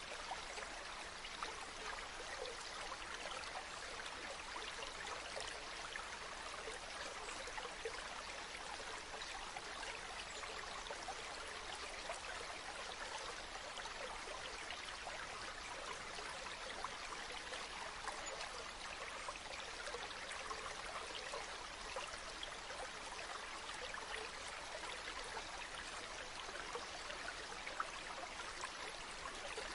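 A river flowing, a steady, unbroken wash of water.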